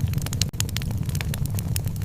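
Wood fire crackling in a fireplace: frequent sharp pops and crackles, several a second, over a steady low rumble.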